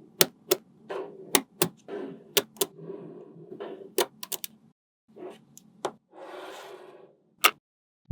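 Small magnetic balls clicking sharply against one another, one snap after another at an uneven pace, with about a second of continuous rattling near the end.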